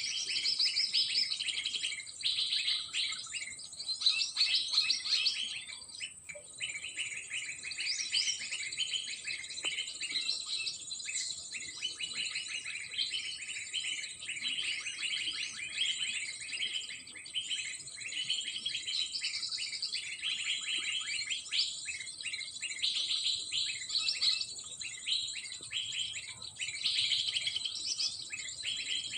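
Dense, unbroken bird chirping with many short repeated notes, over a steady high-pitched insect drone.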